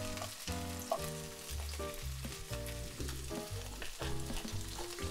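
Nanohana (rapeseed greens) sizzling gently in olive oil in a frying pan on low heat, with an occasional click of the metal tongs. Soft background music with changing bass notes plays underneath.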